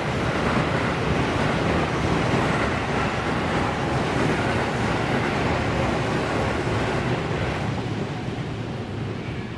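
A passing train's steady rushing roar that fades away over the last couple of seconds.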